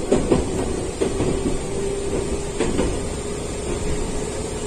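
Gakunan Railway electric railcar running, heard from inside the cab: a steady rumble and a faint steady hum, with short knocks and rattles at the start, about a second in, and twice in quick succession a little past halfway.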